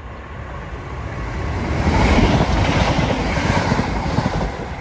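Class 170 Turbostar diesel multiple unit running through the station at speed without stopping. It grows louder as it approaches and is loudest about two seconds in, with engine noise and the clatter of its wheels on the rails, then eases off as the coaches go by.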